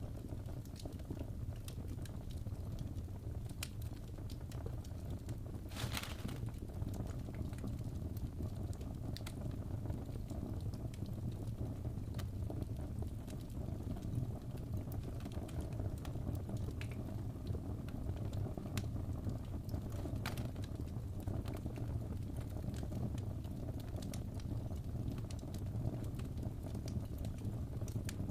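Wood fire in a fireplace crackling: a steady low rumble of flames with scattered sharp pops, and one louder crackle about six seconds in.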